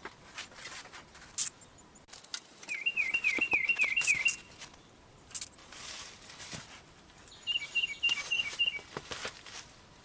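Small songbirds chirping, with two short runs of quickly repeated notes: one of rising-and-falling notes about three seconds in and another about eight seconds in.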